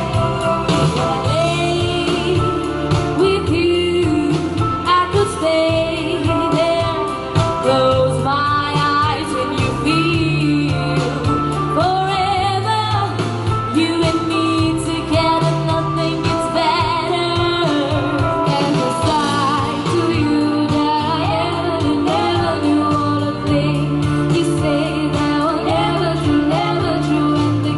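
Live pop ballad performance: a band with a steady bass line under women singing, their voices gliding and holding long notes.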